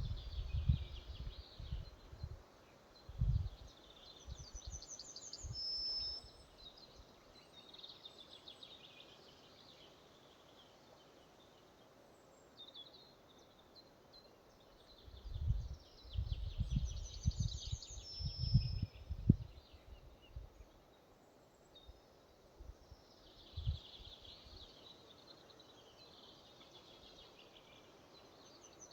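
Forest ambience: a songbird repeats a short high trill ending in a clear whistled note, three times about twelve seconds apart, over a quiet outdoor background. Low rumbling gusts of wind hit the microphone in the first few seconds and again in the middle, the loudest sounds.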